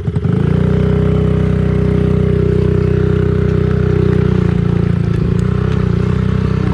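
Honda CRF50 pit bike's small single-cylinder four-stroke engine, revved up just after the start and then held at steady high revs while being ridden.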